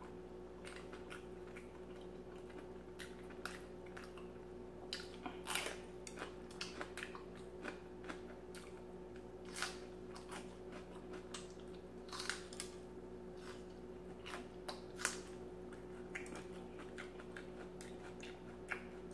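Close-up chewing and biting: scattered crisp crunches and mouth clicks as a raw mini sweet pepper is eaten, over a faint steady hum.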